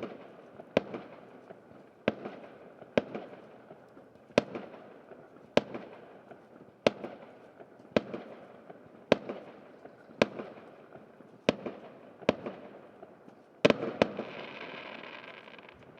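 Fireworks going off: sharp bangs about once a second, each trailing off in an echo. Near the end a double bang is followed by about two seconds of denser crackling.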